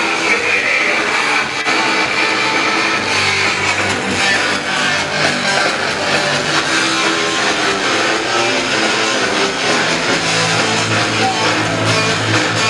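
Punk rock band playing live, electric guitar to the fore over a dense, loud full-band sound.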